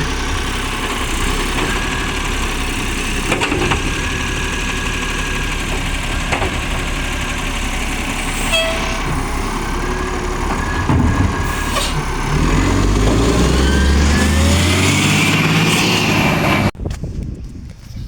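Garbage truck's diesel engine running while driving, then revving up with a steadily rising pitch as it accelerates, before the sound cuts off suddenly near the end. The truck has an exhaust leak.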